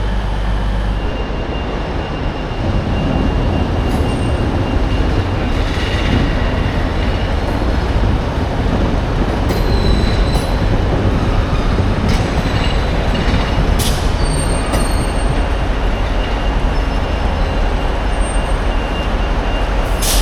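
Passenger train moving at a station: a steady low rumble that grows about two seconds in, with faint thin high-pitched squeals and a few clicks.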